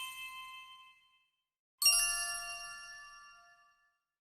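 Bell-like metallic chime, struck and left to ring out: the fading tail of one strike, then a fresh strike a little under two seconds in that rings for about two seconds and dies away.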